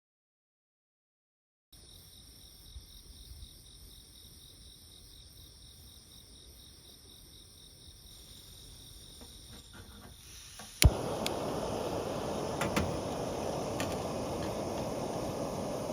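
Faint outdoor ambience with a steady high insect-like hum, then a sharp click about eleven seconds in, followed by a louder steady rush of noise.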